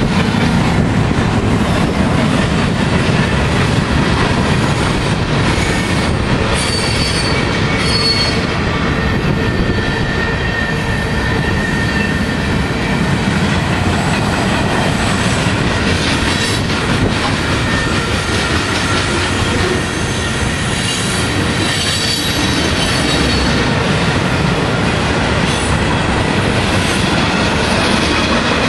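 Freight cars, including tank cars and flatcars, rolling past at close range: a steady loud rumble and clatter of steel wheels on the rails, with thin high wheel squeals coming and going.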